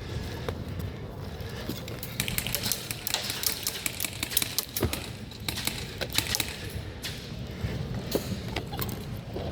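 Airsoft guns firing nearby, a rattle of rapid, irregular sharp clicks, most dense a couple of seconds in.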